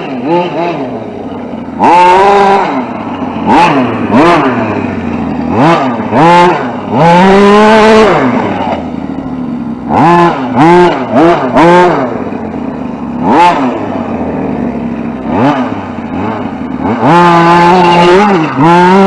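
Radio-controlled short course truck's motor revving in repeated bursts of throttle, its pitch rising and falling every second or two, with longer full-throttle runs near the start, in the middle and near the end.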